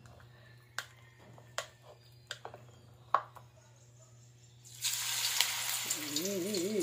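Chicken necks dropped into hot cooking oil in a wok start sizzling about four and a half seconds in, a loud frying hiss that carries on. Before that there are only a few faint clicks over a low steady hum. Near the end a wavering pitched sound rises over the sizzle.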